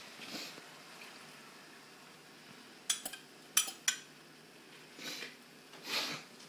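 Kitchen utensils clinking against pots and dishes, with three sharp clinks close together around the middle and a few softer scraping sounds.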